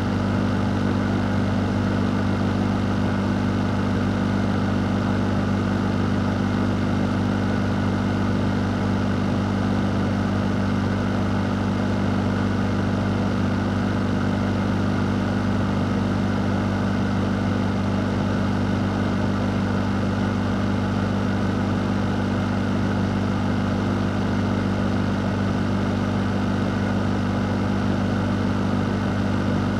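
A fan running steadily: an even rush of air over a constant low hum, with no change throughout.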